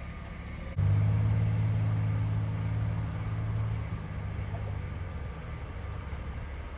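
Steady low engine hum. It gets noticeably louder about a second in and eases off a little after about four seconds.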